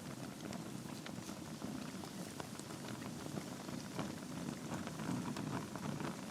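Logs burning in a fireplace: a steady low rush of flame with frequent sharp crackles and pops of the burning wood.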